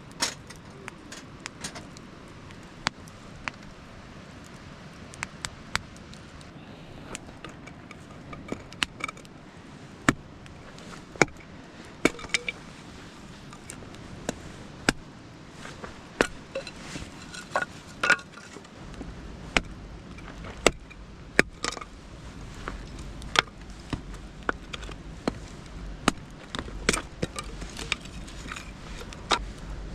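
Firewood being split: a run of sharp, irregular knocks and cracks of a blade striking wood, a few seconds apart at first and then coming faster. A low rumble joins about two-thirds of the way in.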